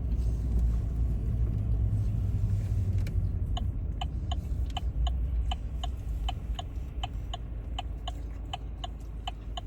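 Car interior road noise and engine rumble while driving. From about three seconds in, a turn-signal indicator ticks steadily, about three clicks a second.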